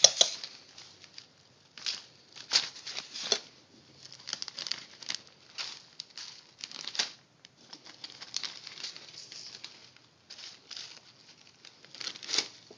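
Plastic food bags and packets being handled, crinkling and rustling in irregular bursts.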